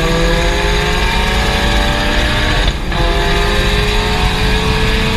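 Turbocharged Toyota Starlet race car's engine at full throttle, its pitch climbing steadily. About three seconds in, a quick upshift cuts the sound briefly before the engine climbs again in the next gear.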